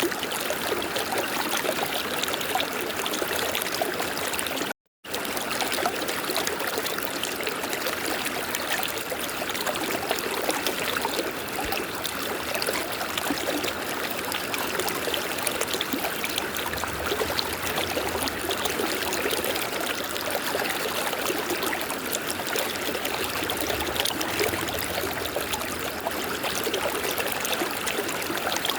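River water flowing in a steady, continuous rush, cut by a split-second total dropout about five seconds in.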